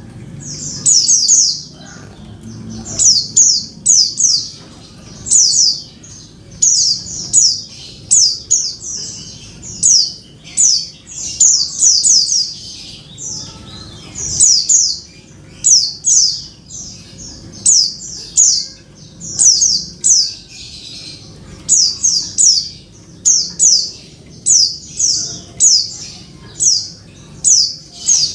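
Female white-eye (pleci) calling to a male. Short bursts of three or four quick, high, falling notes repeat every second or two.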